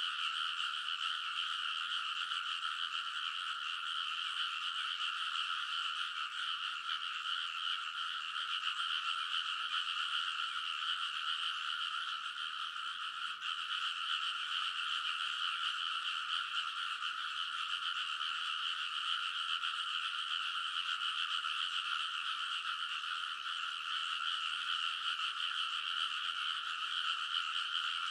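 A large chorus of frogs calling together, a dense, unbroken mass of croaking pitched in two bands, one middling and one higher, that holds steady without pause.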